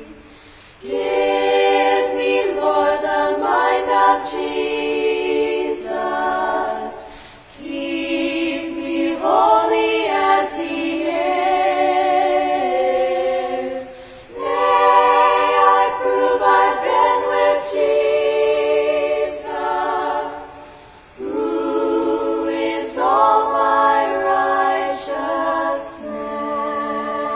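An a cappella choir singing a slow hymn in four long, held phrases, each about six seconds, with brief breaks between them.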